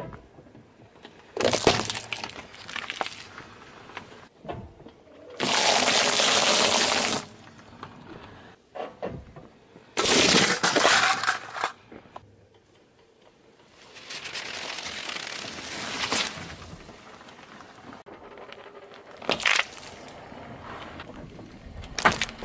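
A series of separate crunches, cracks and bursts as objects are crushed under a car's tyre, some short and sharp, one lasting a couple of seconds.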